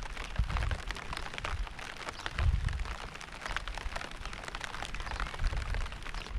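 Steady rain, a dense patter of drops, with low rumbling swells rising and fading about every two to three seconds underneath it.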